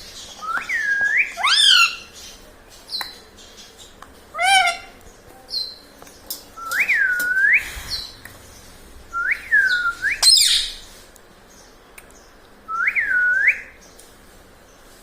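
Indian ringneck parakeet whistling and chirping: four clear whistled notes that dip and then rise, with short rising chirps between them and one harsh squawk about ten seconds in.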